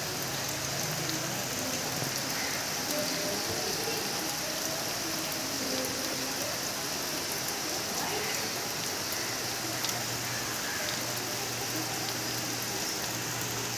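Steady rain falling and pattering on surfaces, an even, constant hiss.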